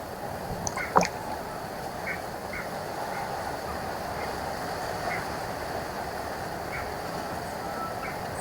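Short bird calls repeating every half second to a second over a steady outdoor hiss, with one loud, sharp sound about a second in.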